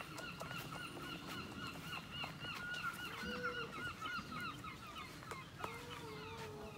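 Bird calls: a fast, even run of short arched calls, about five a second, that fades in the second half, with a lower, longer drawn-out call about three seconds in and another near the end.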